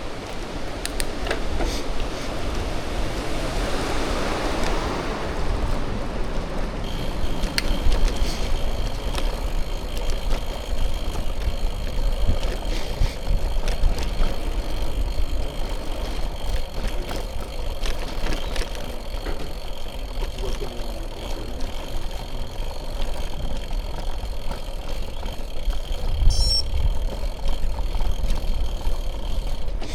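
Bicycle riding sounds: tyres rolling, wind rumbling on the microphone, and the odd click or rattle from the bike. A broad rushing swell rises and fades in the first few seconds. About seven seconds in, a steady high-pitched whine sets in and holds.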